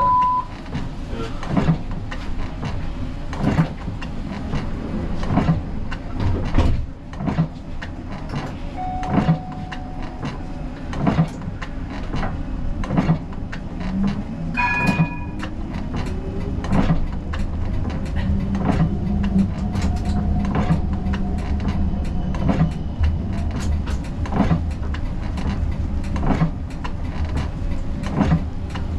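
Siemens Combino tram running, heard from inside the driver's cab: a steady low rumble that grows heavier about two thirds of the way through, with a sharp click roughly every second and a half to two seconds. Short electronic beeps sound at the start and about halfway.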